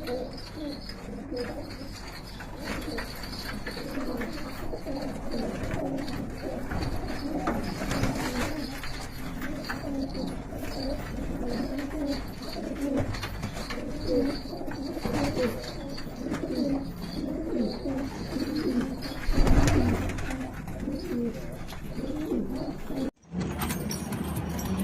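Domestic pigeons cooing continuously, several birds overlapping, with a brief louder noise about twenty seconds in and a split-second dropout near the end.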